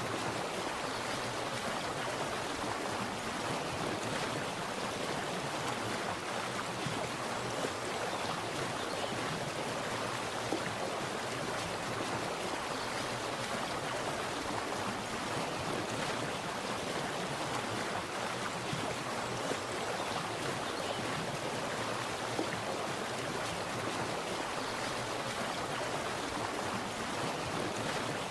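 Water splashing and running steadily, an even rushing with occasional small splashes.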